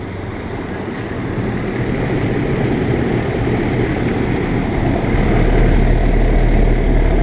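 Rheem central air-conditioner condenser unit running: a steady fan whoosh over a low compressor hum, growing gradually louder. A deep low rumble joins about five seconds in.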